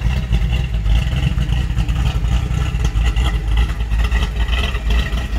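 1969 Pontiac Firebird's 400 cubic-inch V8 running steadily at idle through its dual exhaust.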